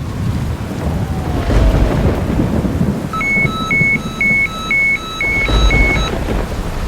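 Thunder rumbling over heavy rain, with two heavier low rolls. From about three seconds in, an electronic alarm beeps six times in an even rhythm.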